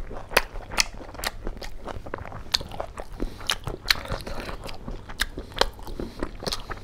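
Close-miked chewing of pork curry and rice: irregular sharp wet mouth clicks, a few a second.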